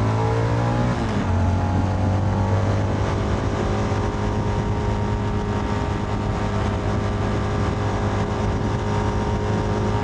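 Motorcycle engine running at a steady cruise, with wind and road noise on the helmet microphone; the engine note shifts briefly about a second in, then holds steady.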